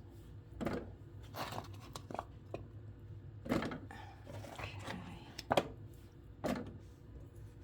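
Irregular knocks and thuds of raw produce, carrots among it, being handled and dropped into the hopper of a Nama J2 juicer that is not yet running. The sharpest knocks come about halfway through and twice more near the end.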